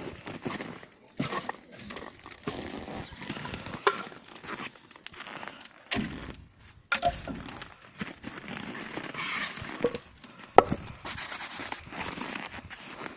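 Firewood being loaded into an outdoor wood furnace: irregular crunching and crackling with several short knocks, the sharpest one about ten and a half seconds in.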